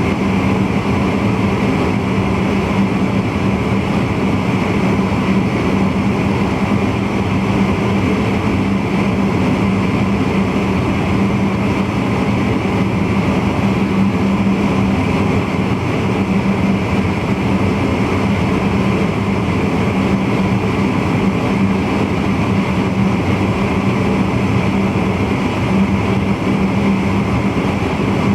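Steady running noise of an NS VIRM double-deck electric intercity train heard from the driver's cab while under way: a constant low hum with rolling noise over it, unchanging throughout.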